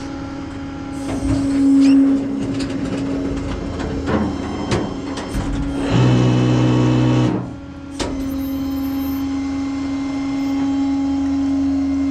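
Tow truck running with a steady hum, with scattered clicks and knocks, and a louder droning tone for about a second and a half past the middle.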